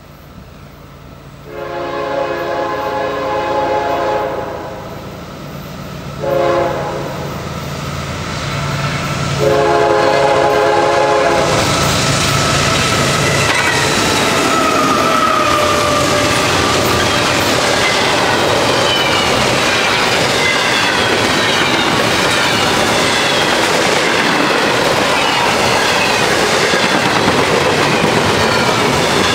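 CSX diesel freight locomotive's air horn sounding for a grade crossing: a long blast, a short one, then another long one, over the low running of the approaching engine. The locomotive and a string of double-stack container cars then roll past close by, wheels clattering and squealing on the rails.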